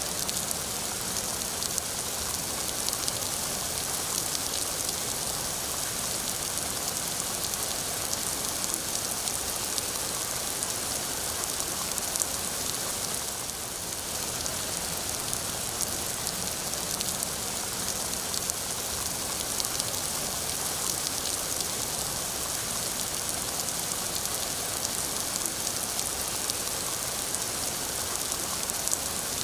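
Steady rain falling on a surface, a continuous hiss full of fine, close drop patter.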